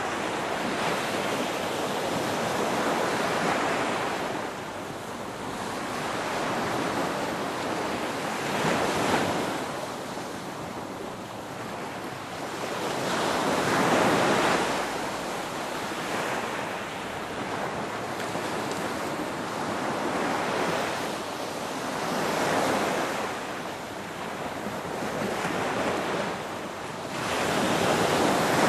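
Ocean waves breaking and washing on the shore, a steady surf hiss that swells and ebbs every few seconds as each wave comes in, with the loudest swells about nine seconds in, around fourteen seconds, and near the end.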